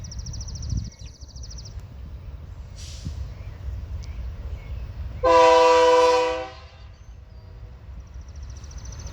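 Freight locomotive air horn sounding one blast of just over a second, a multi-note chord, over a low rumble. A faint high pulsing buzz comes and goes near the start and end.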